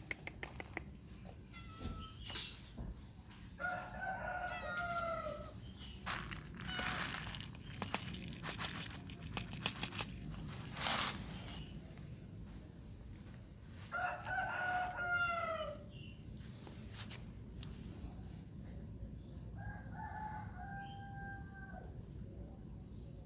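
Rooster crowing: three long crows several seconds apart, each dropping in pitch at its end. Scattered clicks between them and a brief louder noise burst about eleven seconds in.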